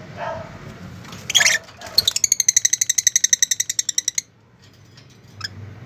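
Pet birds calling: a sharp loud call, then a rapid, even beeping trill of about eleven notes a second lasting about two seconds, then a few clicks.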